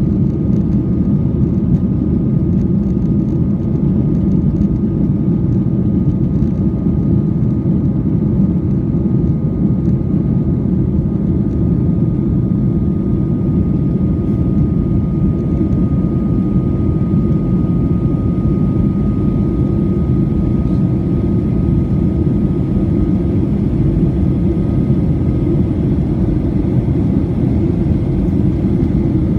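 Jet airliner noise as heard from the passenger cabin: a steady low rumble of engines and airflow, with a faint steady whine above it.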